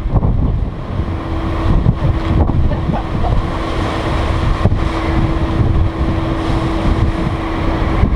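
Strong wind buffeting the microphone on a ferry's open deck: a loud, steady low rumble. A faint steady hum comes in about a second in and holds on underneath.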